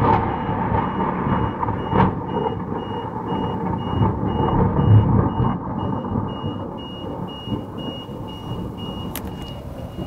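Thunder rumbling and slowly fading away after a nearby lightning strike, with a high electronic beep repeating about twice a second throughout. A sharp click comes near the end.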